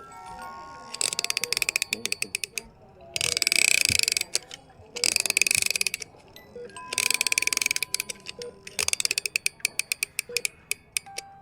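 A music box being wound up by its key: five bursts of fast ratchet clicking, one for each turn, with a few faint stray notes from the comb between turns.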